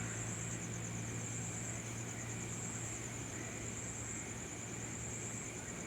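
Crickets trilling steadily in a high, fast-pulsing chirr, over a low steady hum.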